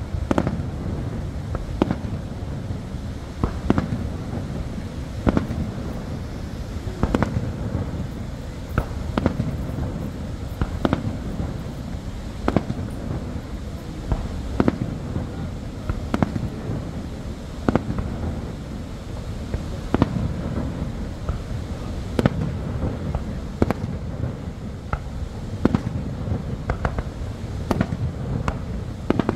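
Aerial fireworks shells bursting with sharp bangs roughly every one to two seconds, over the steady low roar of Niagara Falls.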